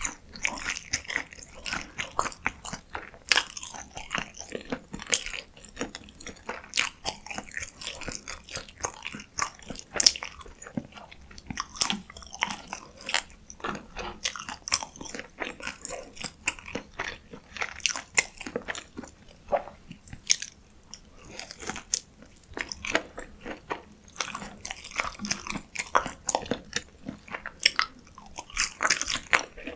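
Close-miked eating of McDonald's fast food: crunchy bites and chewing, with dense, irregular crackles throughout.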